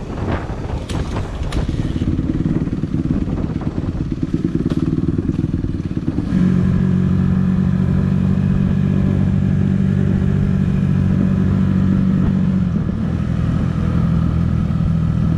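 Honda CRF150R's single-cylinder four-stroke engine running as the dirt bike rides along a road, with a few clicks and clatter in the first seconds. About six seconds in, the engine gets louder and holds a steady pitch, dipping briefly near the end.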